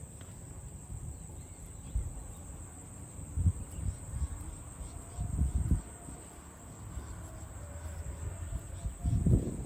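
Steady high-pitched chirring of insects, with a few short low rumbling bumps, the loudest near the end.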